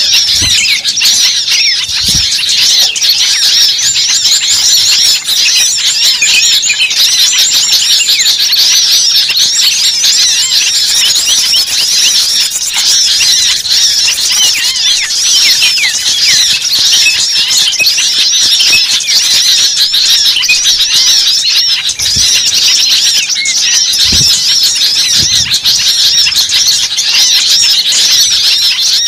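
Dense, unbroken chorus of many small birds chattering and squeaking at once, the agitated 'ribut' calling used as a bird-luring recording to draw small forest birds in. A few soft low thumps sit under it.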